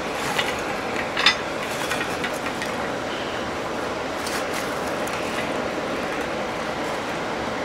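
Steady rushing of a small charcoal forge blown by a bathroom ventilation fan. A few light metallic clinks come in the first second and a half as steel is shifted in the fire.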